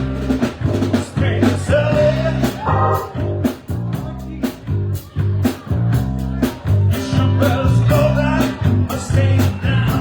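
Live band playing blues-rock: electric guitar, bass and drum kit at a steady beat, with a voice singing.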